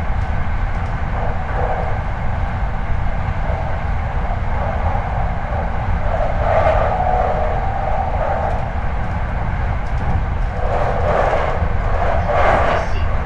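Hankyu 8300 series electric train running, heard from the car floor above a bogie: a steady low rumble of wheels on rail. Louder rasping patches come about halfway through and again near the end.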